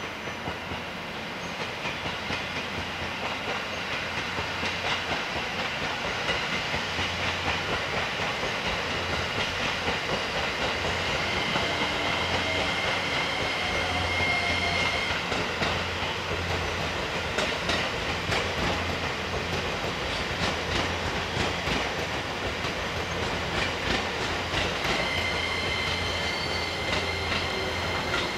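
E257-series electric train running slowly through depot tracks, its wheels clicking rhythmically over rail joints and points, with a steady low hum. A thin high whine comes in around the middle and again near the end.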